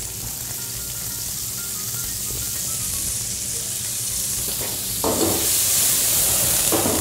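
Diced fish, peppers and tomato sizzling in a hot frying pan, getting louder about five seconds in as flames flare up over the pan.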